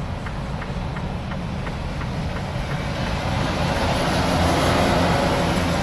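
Semi truck driving on a snowy road: steady engine and road rumble with regular clicking about three times a second. A rushing hiss of tyres through slush builds from about halfway and becomes the loudest part.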